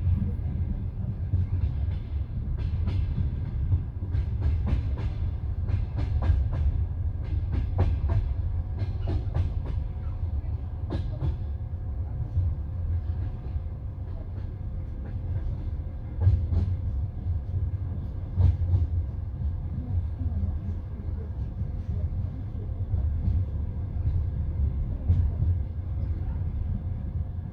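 Passenger train coach running at speed on the line, a steady low rumble with the wheels clacking over rail joints. The clacks come thick in the first half and more sparsely later.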